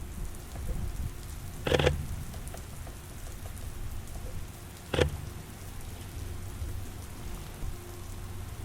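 Steady rain falling, broken twice by a sharp click about three seconds apart: the Sony A7IV camera's shutter firing.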